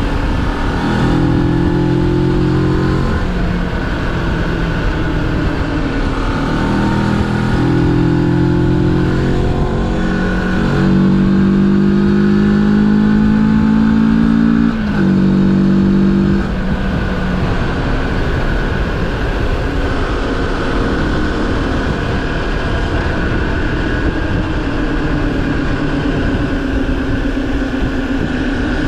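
Moto Morini X-Cape 650's parallel-twin engine pulling the bike along the road: the pitch climbs in several rising runs through the first half, drops sharply at a gear change about halfway, then holds steady at cruising speed, over constant wind and road noise.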